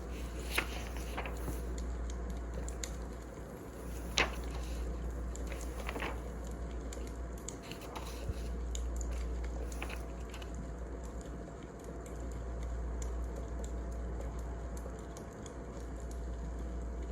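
Wood fire crackling: a steady low rumble and hiss with scattered sharp pops and snaps, the loudest about four seconds in.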